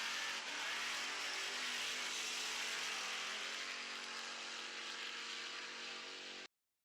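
A steady engine-like running sound with a strong hiss over a few steady tones; it cuts off suddenly near the end.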